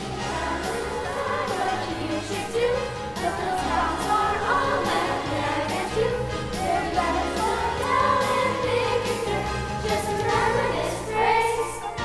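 A group of voices singing a song with instrumental accompaniment, sung melody over a steady bass line.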